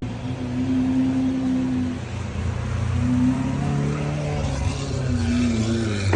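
Car engine running, its pitch rising and falling a few times as the revs change.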